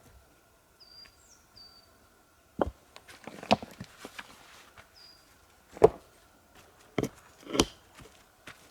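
Wood being chopped or split with an axe: five irregular knocks, with a few short high chirps of a small bird in between.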